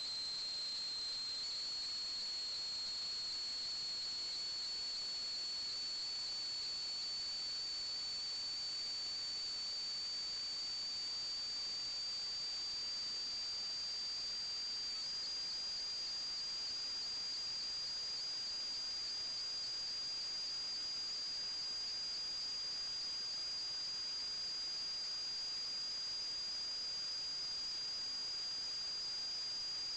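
A steady, high-pitched electronic whine over a faint hiss, its pitch creeping slowly upward, typical of electrical noise in a sewer inspection camera's recording.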